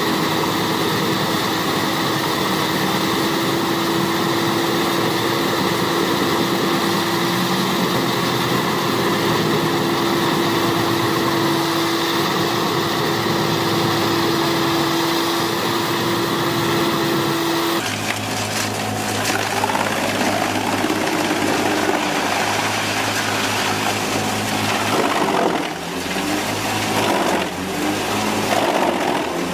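Large industrial wood chipper running steadily, its engine and blades making a constant drone with a high steady whine. About two-thirds of the way through, the sound changes abruptly to a rougher, more uneven machine noise.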